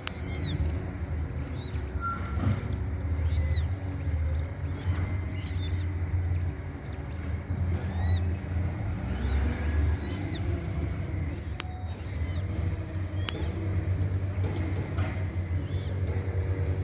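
Ducklings peeping: short, high, arched calls every few seconds over a steady low rumble.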